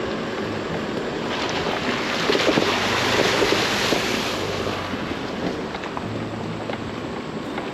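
Chevy Colorado ZR2 Bison pickup driving on a trail: a steady low engine hum under tyre and road noise, with a louder hissing, crackling swell from about a second and a half in that fades away by about five seconds.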